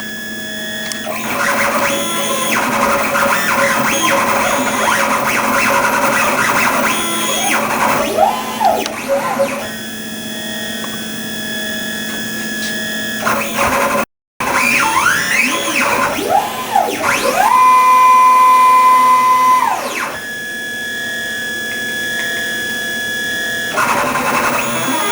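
CNC router's stepper motors whining as the gantry drives a drag knife through vinyl: the pitches rise and fall with each move as the machine speeds up and slows down, with one whine held steady for about two seconds in the last third.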